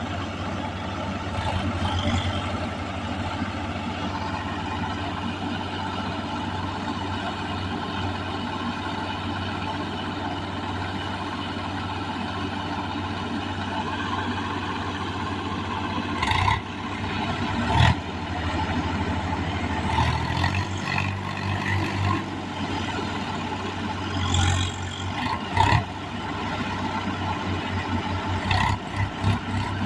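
Farm tractor diesel engine running and revving, its note swelling and easing as the tractor works in mud, with a few sharp clanks in the second half.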